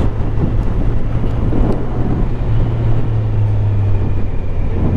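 Motorcycle engine running at low, steady revs while riding slowly, with road and wind rumble.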